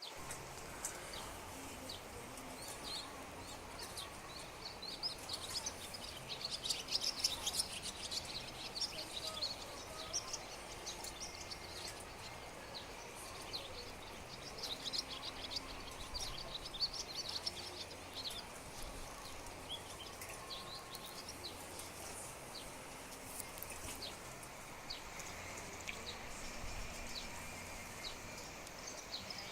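Small birds chirping in many quick, high calls, thickest about a fifth of the way in and again around the middle, over a steady outdoor hiss.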